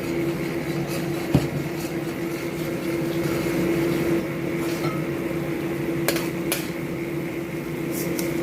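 Thickened orange sauce simmering in a wok over a steady background hum, with one utensil knock against the wok about a second in and two sharp clicks about six seconds in.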